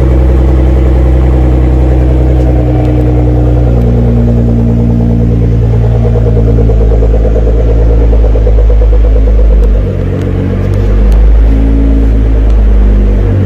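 Nissan GT-R R35's twin-turbo 3.8-litre V6 (VR38DETT) running at a steady idle, with a deep exhaust note. About ten seconds in the level briefly dips, then swells again.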